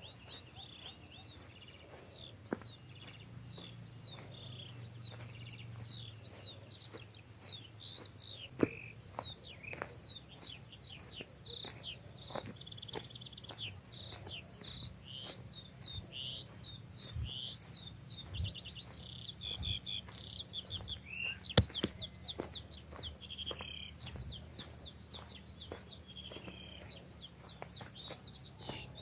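Songbirds singing: many quick falling chirps and fast trills, repeated throughout. A few sharp clicks break in.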